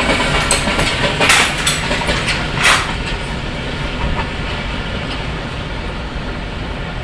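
Freight train wagons rolling past on the track, wheels clattering over rail joints with a few sharp clicks early on. The noise eases slightly as the train goes by.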